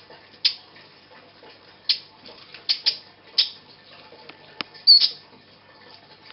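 Baby bird chirping: about half a dozen short, high-pitched chirps at irregular intervals, with one sharp click a little past halfway.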